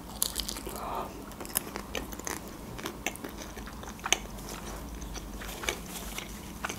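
A person biting into and chewing a homemade soft taco wrapped in thin lavash, close to the microphone: soft wet mouth sounds with scattered small clicks.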